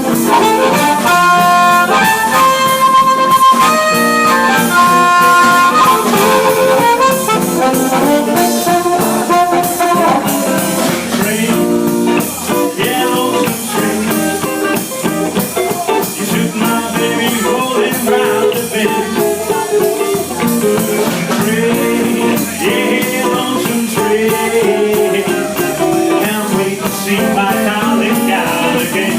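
Live blues band playing an instrumental passage. A lead instrument plays held high notes for the first six seconds or so, then the fuller band texture with guitar takes over.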